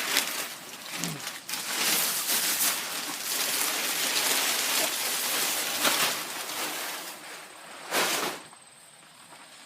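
Plastic tarp cover rustling and crinkling as it is dragged off a garden tractor, with a louder sweep near the end before it goes quiet.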